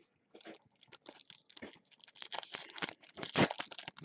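Basketball trading card pack wrapper being torn open and crinkled by hand. The dense crackling starts about half a second in and is loudest near the end.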